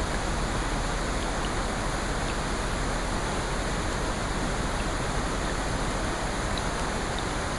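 Steady, even rushing water noise with a few faint, scattered small ticks.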